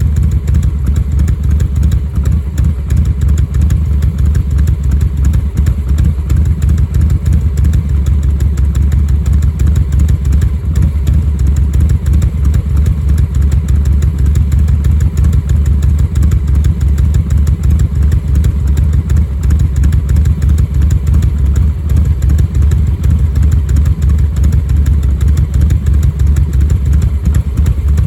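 Harley-Davidson Milwaukee-Eight 117 (1923 cc) V-twin idling steadily at about 730 rpm through COBRA RPT 3-inch slip-on mufflers, with a loping, three-beat-style exhaust rhythm from its retuned low idle and Tman-001 cam.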